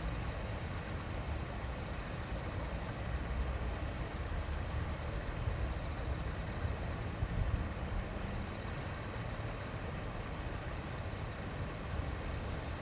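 A shallow river flowing: a steady, even rushing of water with a low rumble beneath it.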